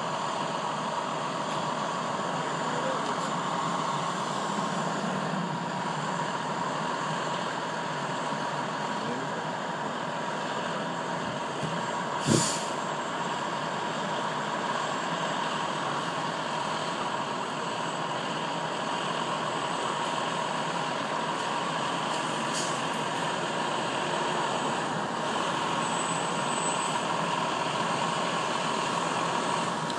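Fire engine idling: a steady mechanical noise with a faint steady tone, broken by one sharp knock about twelve seconds in.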